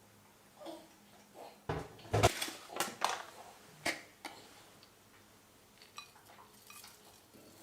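Dishes and cutlery clattering in kitchen work: a quick run of clinks and knocks about two seconds in, a few more single knocks over the next two seconds, then lighter taps.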